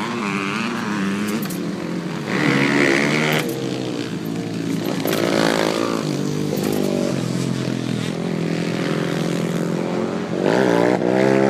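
Yamaha two-stroke dirt bike engine running, revved up in several short throttle blips between spells of idling.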